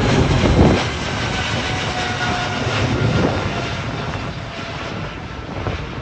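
Boeing 777-300ER's two GE90-115B turbofans at take-off thrust: a loud, dense jet noise that fades slowly as the airliner climbs away, with faint whining tones sliding down in pitch.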